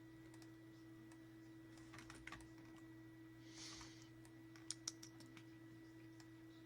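Faint computer keyboard clicks, scattered, with two sharper clicks close together about three-quarters of the way through, over a steady low electrical hum.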